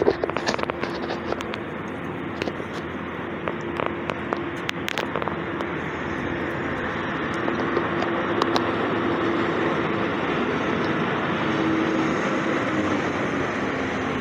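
Heil 5000 rear-loader garbage truck running, a steady mechanical sound with a held whine, and scattered clicks and knocks in the first few seconds. It grows slowly louder.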